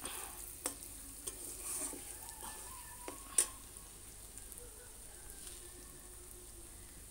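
A spice masala of onion, garlic, ginger and chilli sizzling in oil in an aluminium kadai, nearly fried through. A steel spatula stirs it, clicking against the pan a few times in the first few seconds, with the loudest knock about three and a half seconds in; after that only a steady, quiet sizzle.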